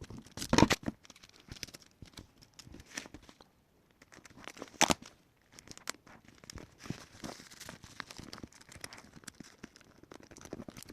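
Sticky tape being pulled off the roll and torn, with paper and plastic-bag stuffing crinkling as a paper squishy is taped shut. The loudest moments come about half a second and about five seconds in.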